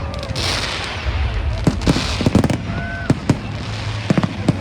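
Fireworks display: a hissing burst near the start, then a rapid run of sharp bangs and crackling pops, with a short whistle around the middle.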